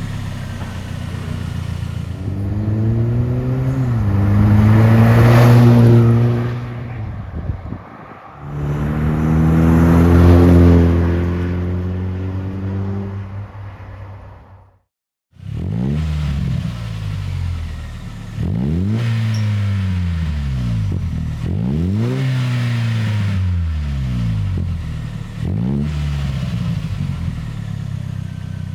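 2024 Toyota Tacoma's 2.4-litre turbocharged four-cylinder revving through a Revel Medallion Trail Hart stainless cat-back exhaust. It gives two longer revs that climb and hold before falling away. After a brief cut come about five quick blips that rise and drop back.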